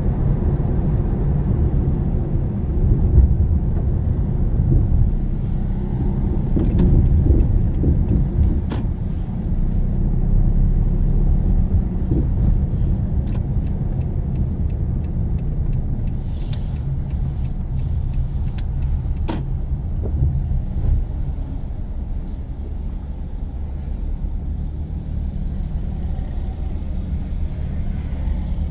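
Car driving, heard from inside the cabin: a steady low engine and road rumble, with a few brief sharp clicks.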